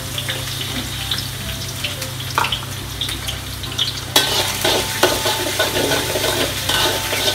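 Shallots frying and sizzling in hot oil in a wok. About four seconds in, a metal spatula starts stirring and scraping around the wok, and the sizzle gets louder with each stroke.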